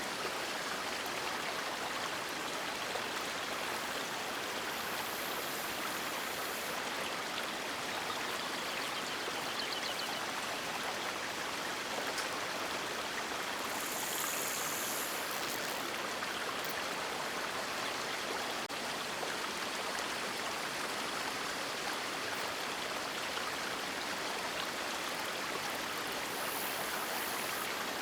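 River water rushing steadily, an even, continuous hiss of flowing water, with a few faint brief high-pitched sounds over it.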